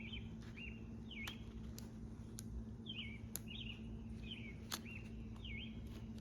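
Small birds chirping: short, dipping-and-rising chirps repeated every second or so, with a few sharp clicks and a steady low hum underneath.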